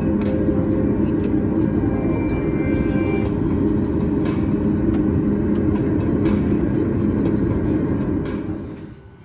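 Steady rumble inside the cabin of a Boeing 737 MAX 8 as it taxis at idle, from the engines and airflow, with a few light clicks. Near the end the rumble drops away sharply to a much quieter background.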